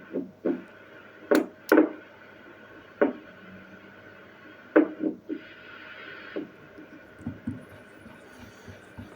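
Steady hum and hiss from a radio receiver, broken by about ten sharp clicks or knocks, some in quick pairs, and a burst of hiss lasting about a second midway through.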